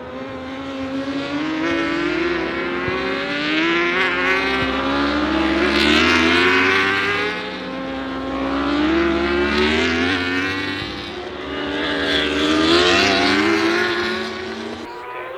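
Superbike racing motorcycles accelerating hard past, engine pitch climbing through repeated upshifts. The sound swells three times, loudest about six, ten and thirteen seconds in.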